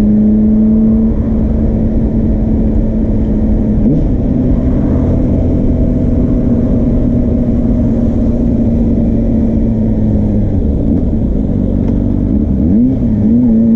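Suzuki GSR400 inline-four running through a Yoshimura Cyclone Tri-Oval exhaust, holding fairly steady high revs. The pitch wavers briefly near the end and then starts climbing as the revs rise.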